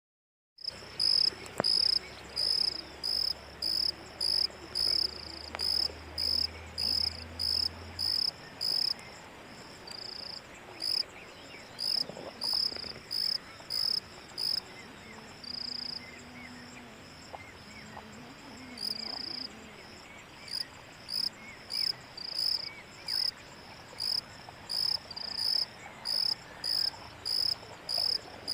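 A cricket chirping in a steady, even rhythm of about two high-pitched chirps a second, cutting in abruptly just after the start.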